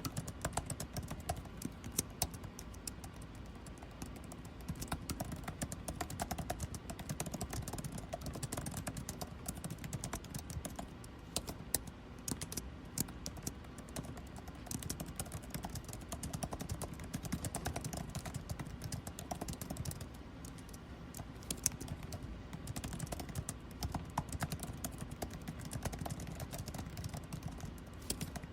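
Continuous typing on a computer keyboard, an irregular stream of rapid key clicks, over the steady low hum of air conditioning.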